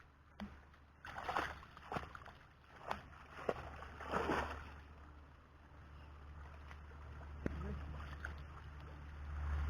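Water splashing and sloshing in several short surges, with a few sharp knocks, over a low rumble that grows louder near the end.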